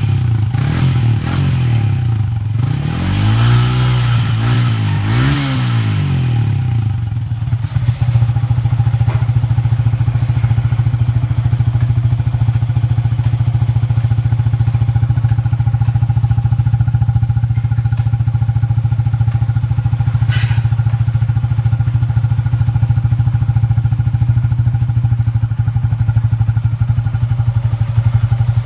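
Yamaha Exciter 150's single-cylinder engine through an aftermarket UMA Racing exhaust, revved up and back down twice in the first few seconds. It then settles into a steady idle for the rest of the time.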